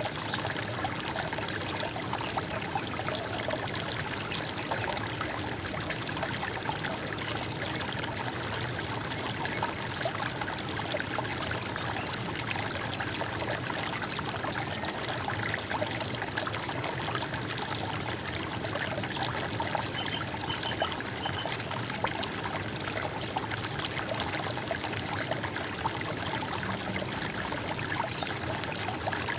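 Running stream of water gurgling steadily.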